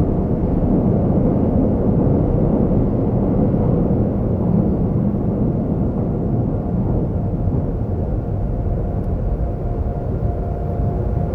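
Seoul subway train running: a steady low rumble of the moving train, with a faint steady whine joining in about halfway through.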